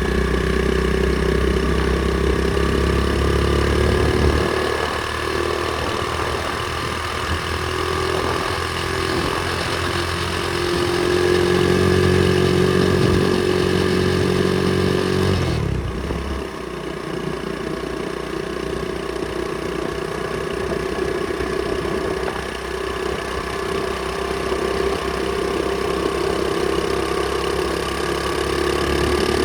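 Pit bike engine running steadily, its note and level shifting a couple of times.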